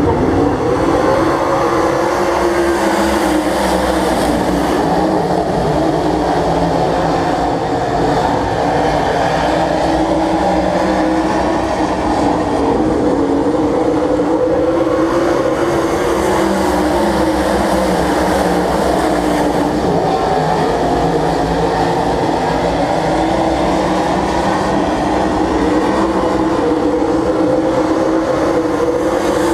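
Several stock cars running laps around the speedway, their engines loud and continuous, with the pitch swelling and falling as they circle.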